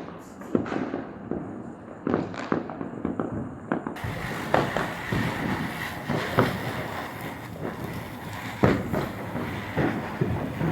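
Firecrackers bursting, many sharp bangs and pops at irregular intervals over a steady crackling background. About four seconds in, the background abruptly becomes a fuller, denser hiss.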